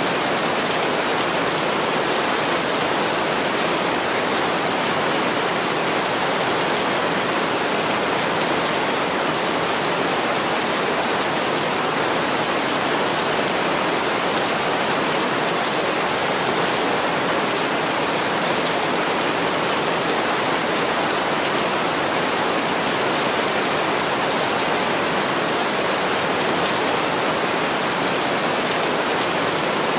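Steady heavy rain, an even hiss that doesn't let up.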